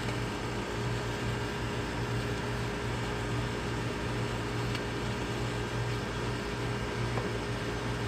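Steady hum and whir of other outdoor air-conditioner condenser units running, an even fan-and-compressor drone with a constant low hum.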